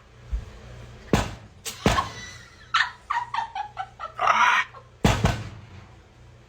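Shoebill stork snapping and clattering its bill: a few sharp knocks, then a quick run of rattling knocks midway. A loud harsh burst comes just after four seconds.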